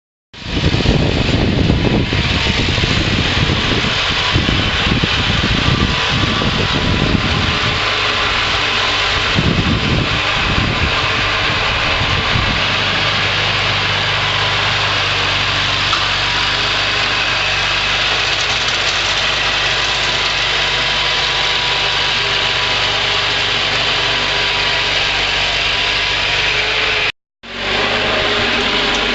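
Ingersoll garden tractor engine running steadily while snowblowing, with a loud steady hiss over it. The low rumble is uneven for the first dozen seconds, then settles, and the sound cuts out for a moment near the end.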